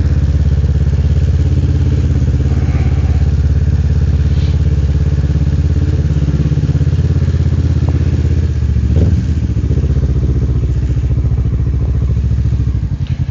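Motorcycle engine running steadily under way, with a brief change about nine seconds in and the throttle easing off near the end.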